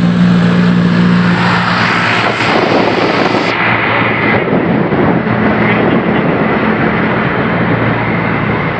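Vehicle engines running with road noise, a steady low engine drone underneath; the hiss above it drops off abruptly a little over three seconds in.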